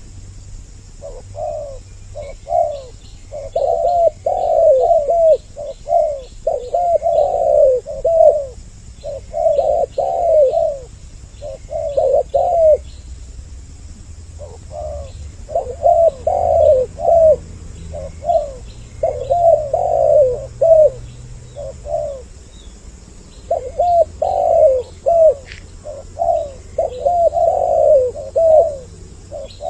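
Spotted doves cooing in repeated phrases, two birds calling, with short pauses between bursts. Faint high chirps of small birds run underneath.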